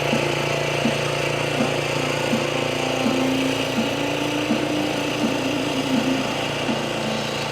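Sears Suburban garden tractor engine running steadily under load.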